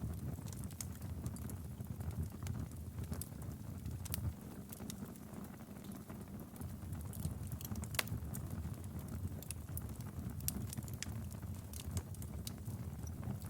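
Wood fire in a fireplace crackling, with irregular sharp pops over a low, steady rumble of the flames; one louder pop about eight seconds in.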